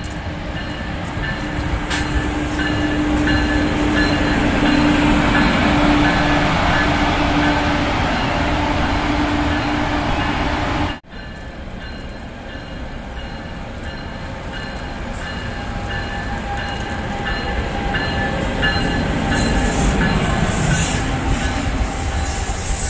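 NJ Transit commuter train running past on the rails: rumbling wheel and rail noise with steady humming tones over it, swelling and then easing. The sound cuts off abruptly about eleven seconds in, and a second train sound builds up again afterwards.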